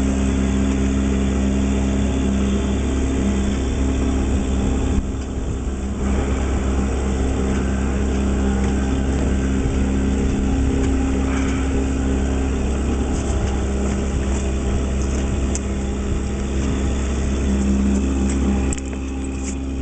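A boat's motor running steadily with a constant low hum, with wind buffeting the microphone; the level dips briefly about five seconds in and again near the end.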